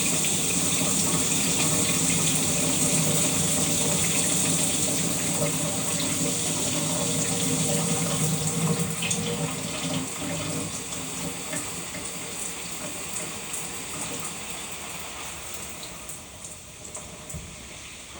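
Shower water running steadily as a dense hiss, then gradually fading over the second half, with a few faint ticks heard as it dies down.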